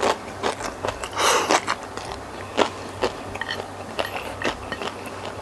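Close-miked wet chewing and mouth smacking of a mouthful of cuttlefish and rice eaten by hand, a string of sticky clicks and smacks with a longer squelching chew about a second in.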